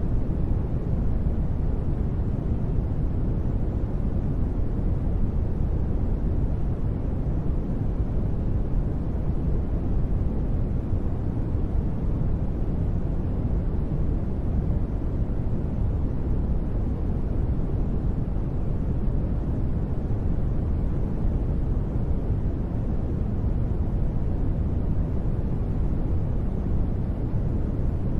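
Continuous white noise sleep track: a steady, even hiss-like noise weighted deep, with most of its energy in the low end and little treble, unchanging throughout.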